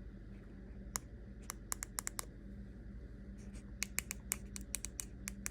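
Repeated sharp clicks, irregular and growing more frequent in the second half: buttons on an e-bike display being pressed again and again while the display fails to turn on. A steady low hum runs underneath.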